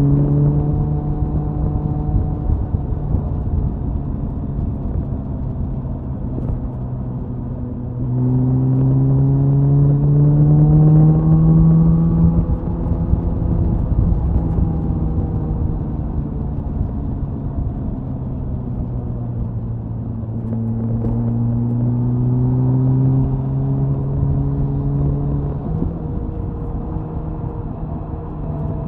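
Suzuki Hayabusa inline-four motorcycle exhaust at high-speed cruise, with wind rush on the microphone. The engine note climbs in pitch as the throttle opens about 8 seconds in, eases back, then climbs again about two-thirds of the way through.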